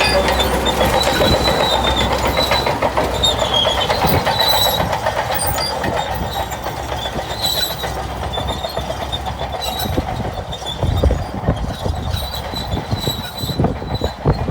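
Shantui crawler bulldozer working, its steel tracks clattering with rapid clanks and brief high squeals, and a few heavier thumps late on.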